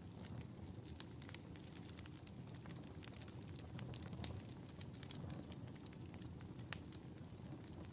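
Wood fire crackling in a fireplace: irregular small pops and snaps over a low steady rumble of the flames, with one sharper pop near the end.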